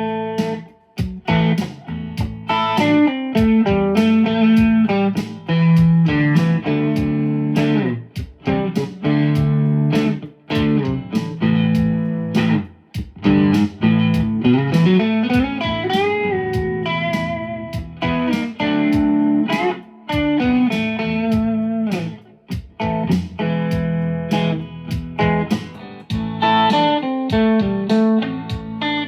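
Fender USA Stratocaster played on a Fender amp's clean channel through a Dynacomp compressor and a Timmy overdrive pedal: a bluesy lead line with string bends over a looped drum and backing track.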